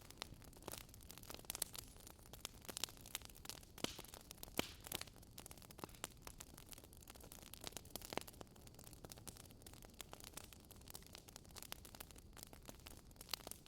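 Wood fire crackling in a fireplace: quiet, irregular small pops and snaps over a soft, steady hiss, with a few sharper pops among them.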